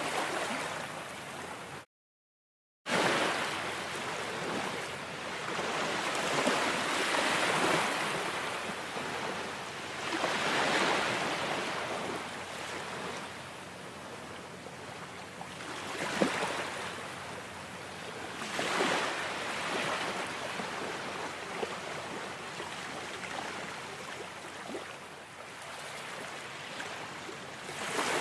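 Ocean waves breaking and washing back, swelling and fading every few seconds. About two seconds in, the sound cuts out completely for about a second.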